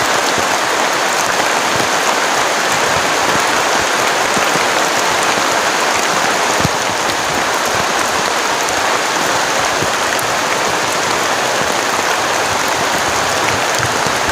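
Heavy rain pouring down in a steady, loud hiss, with scattered drop ticks.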